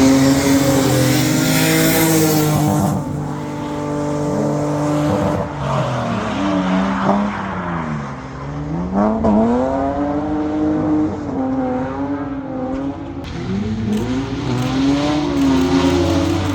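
Drift car engine revving up and down as the car slides, its pitch falling and climbing again several times, with a loud hiss in the first three seconds.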